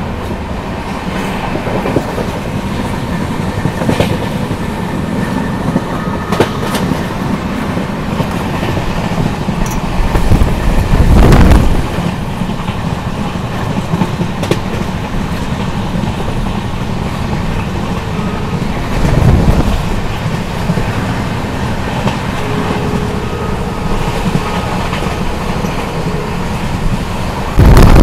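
Passenger train carriage running along the track: a steady rumble with scattered knocks of the wheels, and two louder swells of rushing noise about eleven and nineteen seconds in.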